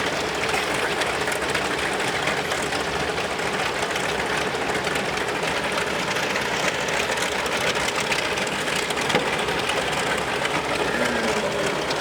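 TBM Avenger radial piston engines running steadily.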